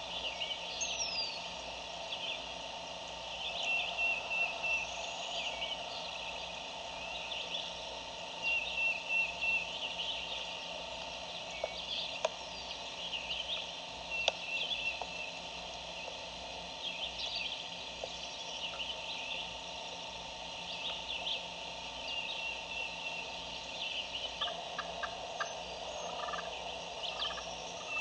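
A distant wild turkey gobbling faintly, its rapid rattling gobble clearest near the end, over songbirds chirping and trilling throughout.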